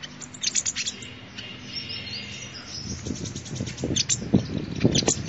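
Sunbird singing: quick, high chirps and short rapid trills. Low thuds join in during the second half.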